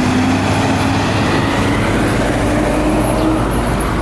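Heavy fire truck's diesel engine rumbling steadily as it passes, with a low tone creeping up in pitch.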